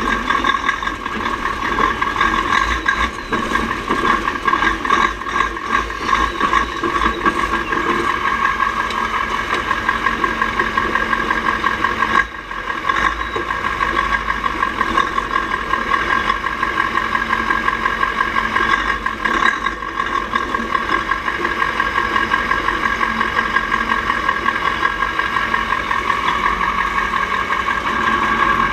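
Mack R-series V8 diesel truck engine running steadily with a pulsing beat. Its sound drops out briefly about twelve seconds in, and again near twenty seconds, before picking up again.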